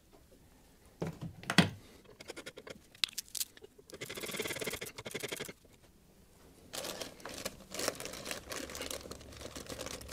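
Close handling noises: a couple of sharp clicks about a second in, then two stretches of rustling and crinkling, like plastic or wrapping being handled around a connector.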